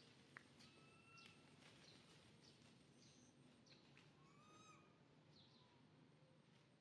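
Near silence, with faint bird calls: short high chirps and a few held whistled notes, the clearest about a second in and just past the middle.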